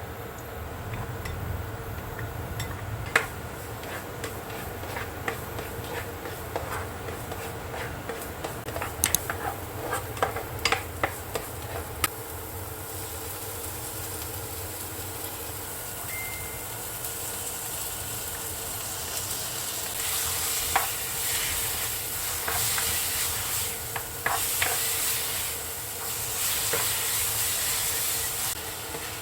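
Cooking in a pan: a utensil clicks and knocks against the pan several times in the first part. Food then frying with a sizzling hiss that gets louder about two-thirds of the way through.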